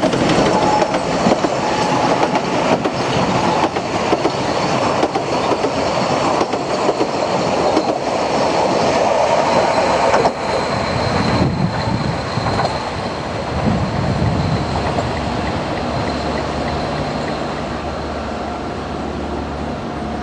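Narrow-gauge steam train running past, its carriages rolling by on the rails, the sound loud at first and fading slowly over the second half.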